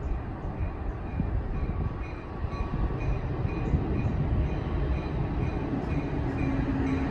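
Caltrain train led by an F40PH-2 diesel locomotive, running through the station with a steady low rumble and faint regular ticking.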